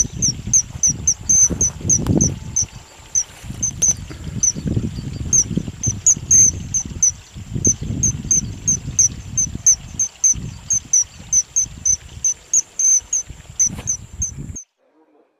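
Outdoor field ambience: short high chirps repeating about three times a second over a steady high-pitched whine, with low rumbling wind noise on the microphone. It all cuts off sharply near the end.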